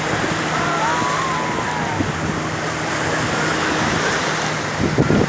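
Steady rush of sea waves and wind at the shore, with a few low knocks near the end.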